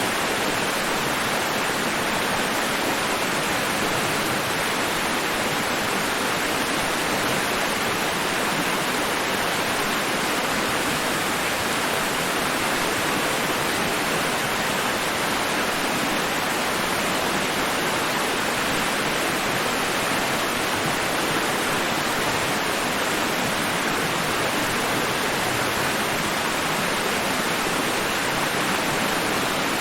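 Steady white-noise hiss for sleep, an even rush across the range with no rise and fall of individual waves.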